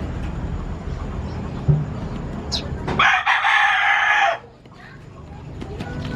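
A rooster crowing once, starting about three seconds in and lasting just over a second, the loudest sound here; a low rumble runs beneath it before the crow.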